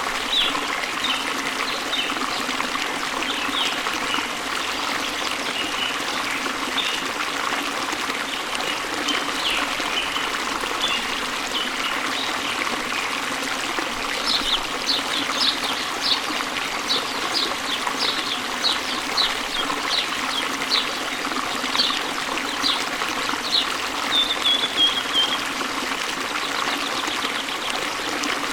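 Small waterfall running steadily, water trickling and splashing. From about halfway through to near the end there is a string of short, high chirps or plinks over the water.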